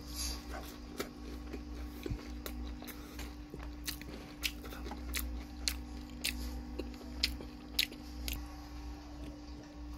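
A person chewing a mouthful of fried chicken and rice close to the microphone, with a run of short, sharp crunches, about one or two a second and most frequent in the second half. A steady low hum runs underneath.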